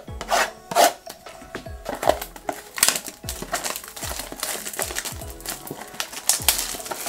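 Cardboard and plastic packaging of a trading-card blaster box being torn open and handled, irregular rustles and scrapes, over steady background music.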